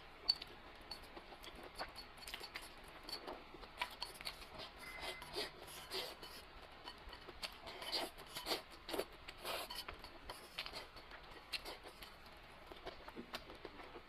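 Close-miked eating sounds: irregular wet clicks and smacks of chewing.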